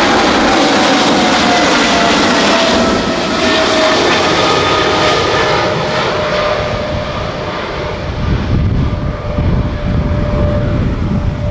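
Boeing 777-300ER's GE90 jet engines at takeoff thrust: a loud roar with a fan whine that falls steadily in pitch as the airliner passes. A deeper, uneven rumble builds near the end.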